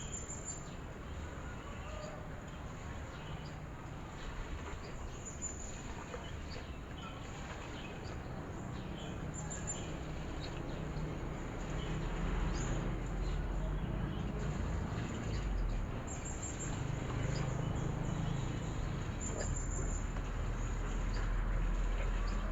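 Birds calling outdoors, with a short high call repeating every four seconds or so over a steady background hiss. From about halfway through, a low rumble builds underneath.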